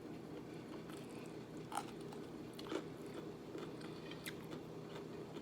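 Faint chewing of adobo-cooked long beans, with a few small mouth clicks, over a low steady hum.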